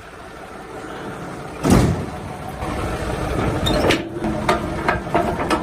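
Semi truck's Cummins diesel engine running, with the rumble growing louder. A single loud bang comes about a second and a half in, and a few sharp knocks and clicks near the end.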